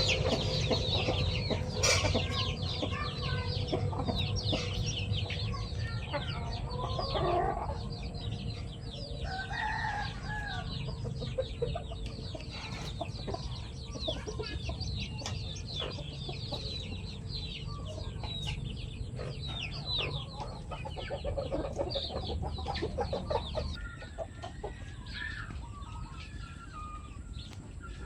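A flock of chickens clucking and calling, with a few louder drawn-out calls about 7, 10 and 25 seconds in. Many short, high chirps run on throughout, over a steady low rumble.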